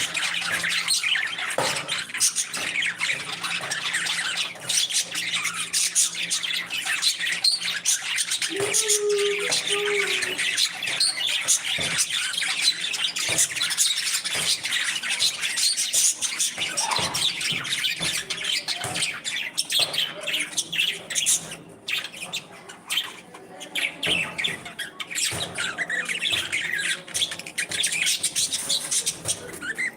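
A group of parrots chattering and squawking, many short high calls overlapping without pause, with one lower held call about nine seconds in.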